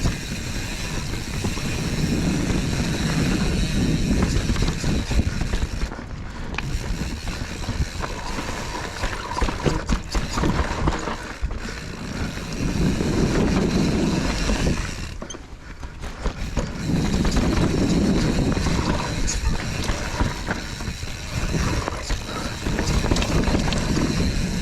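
Mountain bike riding down a rough dirt trail: tyres rumbling over the ground and the bike rattling and clicking. The rumble swells and eases every few seconds with the terrain.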